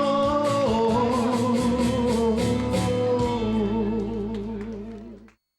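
A singer holds the final note of the song, with a steady wavering vibrato over instrumental backing. It fades and stops about five seconds in.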